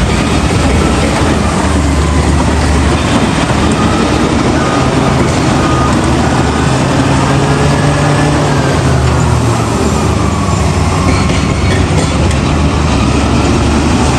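Heavy diesel earthmoving machinery running steadily, its engine note shifting up and down a few times as it works.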